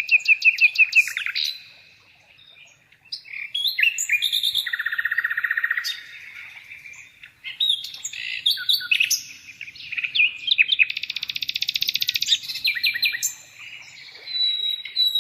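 Birds chirping and singing: fast runs of repeated high notes and trills from several birds, with a short lull about two seconds in.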